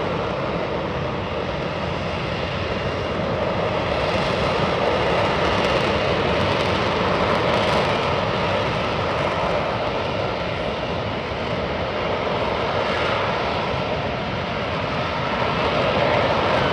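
Aircraft hovering and turning in place, its engines giving a loud, steady rushing noise that swells a little now and then.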